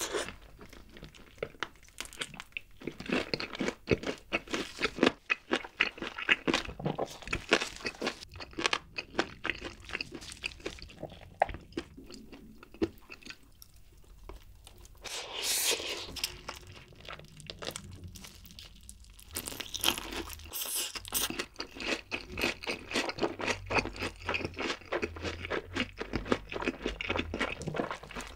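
Close-miked crunching and chewing of crispy fried chicken: a rapid, uneven run of crisp bites and chews.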